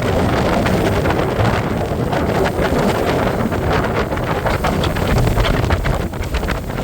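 Wind buffeting the microphone aboard a moving boat in steady gusts, with the boat's running noise beneath.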